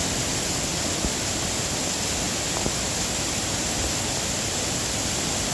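Steady, even rushing of falling water from a waterfall.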